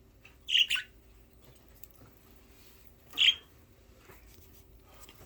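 Budgerigars giving short, sharp calls: a quick pair about half a second in and a single one about three seconds in.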